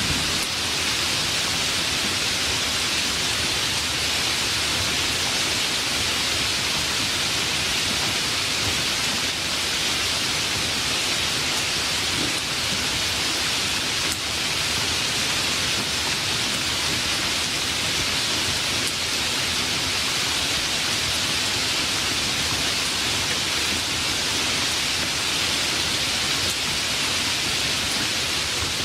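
Steady heavy rain, an even hiss without single drops standing out.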